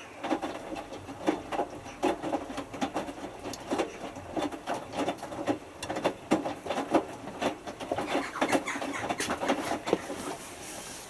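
Hotpoint Futura HF8B593 washing machine's drum tumbling a small load during the main wash, with a busy run of irregular clicks and knocks.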